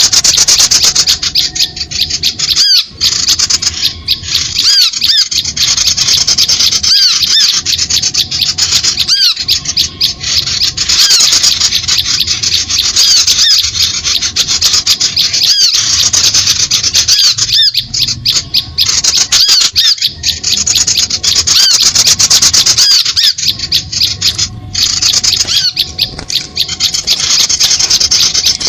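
Bird-luring call recording: small birds chattering in a dense, continuous stream of rapid, high-pitched chirps and squeaks, the kind of agitated calling used to draw small birds in.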